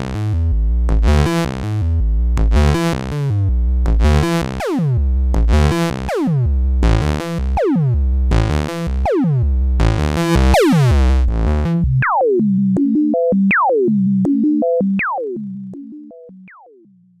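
Eurorack synthesizer patch voiced by the Synthesis Technology E950 circuit-bent oscillator, playing repeating notes over heavy rhythmic low pulses. About twelve seconds in the low pulses stop, leaving a few short notes whose pitch falls sharply, and the sound fades out near the end.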